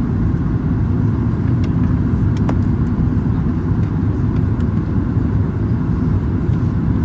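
Steady low rumble of a Boeing 737 MAX 8-200 in flight, heard inside the cabin: engine and airflow noise. A few faint clicks come near the middle.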